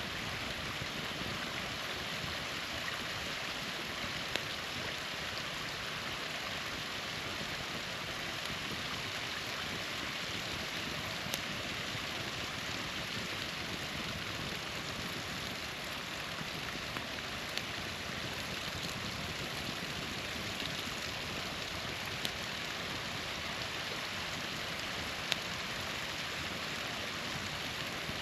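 Small waterfall rushing steadily, with a few sharp pops from a campfire crackling now and then.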